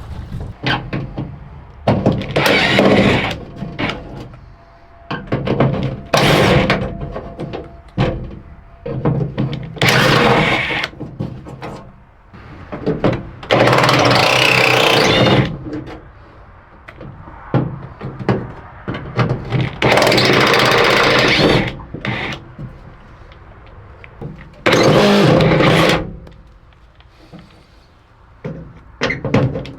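A power tool run in about six short bursts of one to two seconds each, with knocks and clatter of tools and parts between them, during the teardown of an old pickup truck.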